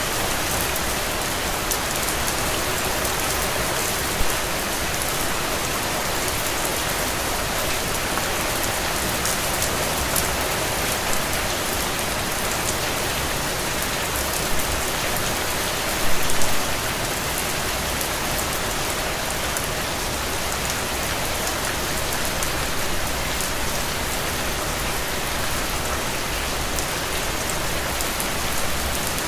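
Heavy, steady rain falling on the ground and splashing into puddles, a dense even hiss with the patter of individual drops. A few louder splashes stand out, the biggest about 16 seconds in.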